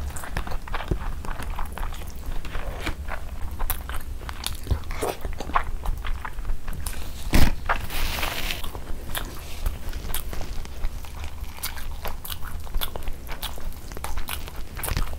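Close-miked eating sounds of a person chewing mouthfuls of rice and chicken curry eaten by hand: many small wet clicks of the mouth. About seven seconds in there is one sharp knock, followed by a brief rustle as a tissue wipes the mouth.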